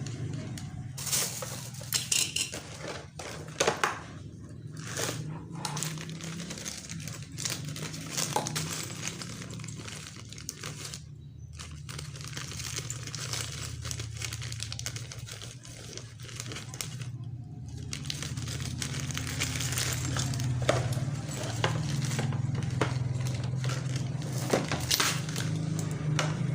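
Plastic packaging crinkling and rustling, with scattered clicks and knocks of small hard parts being handled. A steady low hum runs underneath.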